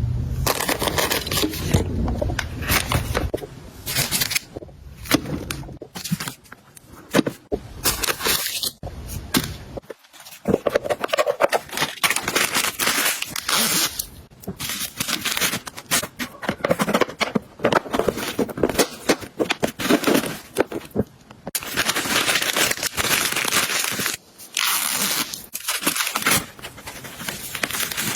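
Household items and packaging being handled: plastic crinkling and tearing, with many clicks, taps and scrapes of objects set down, and a few longer stretches of steady rustling or wiping.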